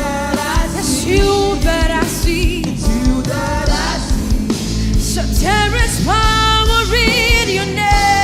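Live gospel worship music: voices singing a wavering, sustained melody over a band with a strong bass line and drums.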